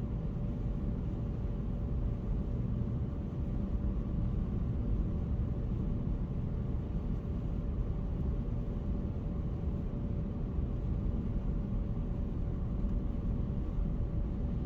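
Steady road and engine noise inside a moving car's cabin at highway speed, a low, even rumble with a faint constant whine.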